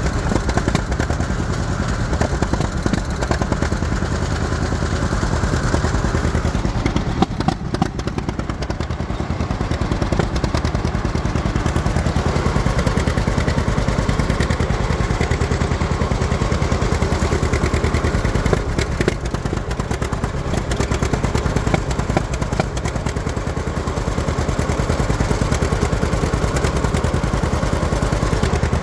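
John Deere Model A two-cylinder tractor engine, converted to propane, running steadily under way with its fast, even popping exhaust beat; the level dips briefly twice. The engine is running lean because it is nearly out of propane.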